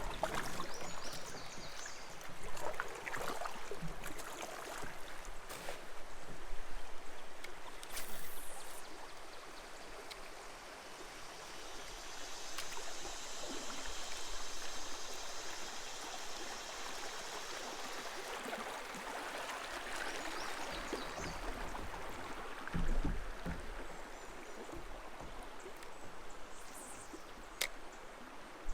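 Creek water running, a steady rushing hiss, with a few sharp clicks along the way.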